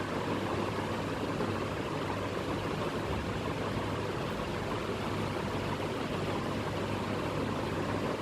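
Steady machine noise, an even rushing whir with a faint constant low hum underneath.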